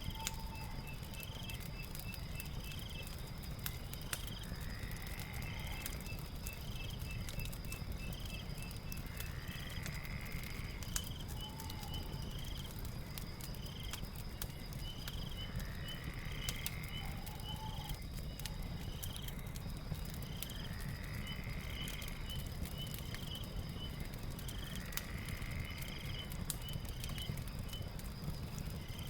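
Crackling fire with scattered sharp pops over a low rumble, layered with night sounds: a steady high-pitched drone and short chirps and calls repeating every few seconds.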